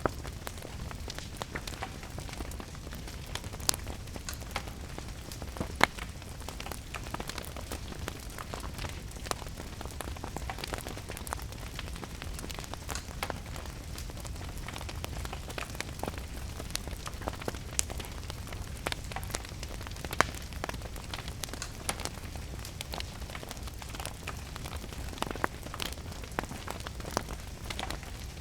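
Wood fire crackling with scattered sharp pops, a few of them louder, over steady rain and a low, even rumble.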